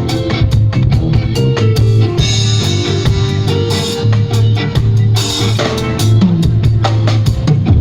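Live band jamming on drum kit, bass and guitar: a steady beat with a strong bass line.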